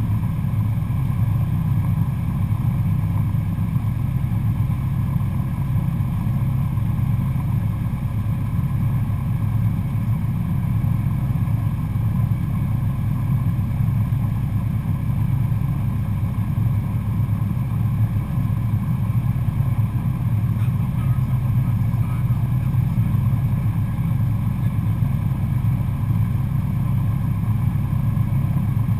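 Cessna 172SP Skyhawk's four-cylinder Lycoming IO-360 engine and propeller running at a steady power setting, a constant low drone with no change in pitch.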